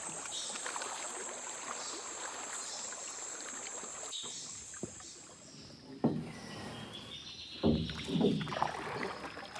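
Water splashing and lapping, with a steady high-pitched buzz that stops about six seconds in; a few louder irregular splashes follow near the end.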